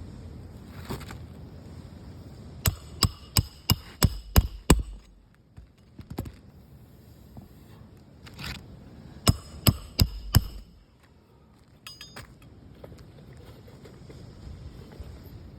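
Sharp metallic clinks from a metal hand tool striking or tapping at asphalt shingles: a quick run of about six strikes, a pause, then about five more.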